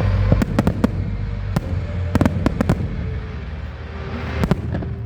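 Fireworks exploding in an uneven series of sharp bangs and cracks, with a strong pair of bangs about four and a half seconds in, over a steady low rumble.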